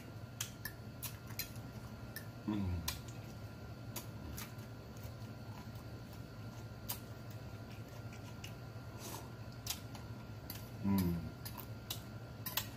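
Close-up mukbang eating sounds: chewing and lip-smacking with many small wet mouth clicks while eating roast turkey leg. Twice, about two and a half seconds in and again near the end, a short 'mm' hum of enjoyment that falls in pitch.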